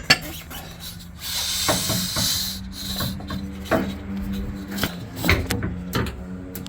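Scraping and rubbing with scattered knocks as an air-bag suspension part is handled and test-fitted on the truck, with a sharp click at the start and a longer scrape about a second in.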